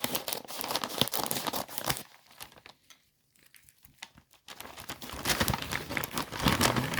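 A shipping package being cut open and unwrapped: its packaging crinkles, rustles and tears, stopping for a moment about midway before the rustling resumes.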